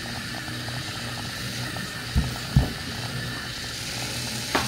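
Small toy robot's motor whirring steadily as it drives off, with a fine rapid ticking, and two dull thumps a little over two seconds in.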